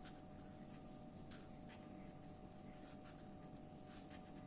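Near silence: faint room tone with a steady low hum and a few faint brief ticks.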